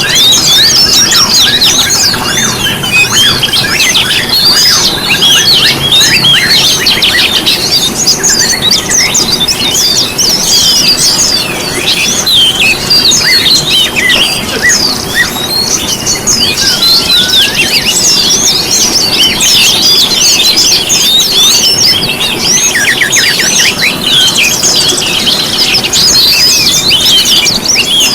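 A dense chorus of small songbirds, many high chirps, whistles and trills overlapping without pause. Near the end one bird gives a fast trill of rapidly repeated notes.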